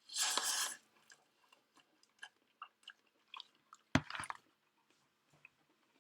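A person biting and chewing a crunchy snack: a loud crunch at the start, small wet clicks of chewing, and another sharp crunching bite about four seconds in.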